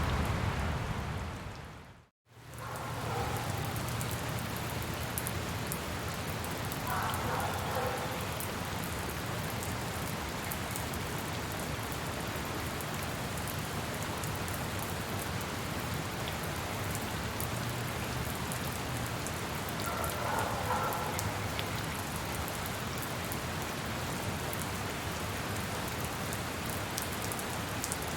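Steady rain falling on a surface. About two seconds in, the sound fades out to a moment of silence, then the rain returns and carries on evenly.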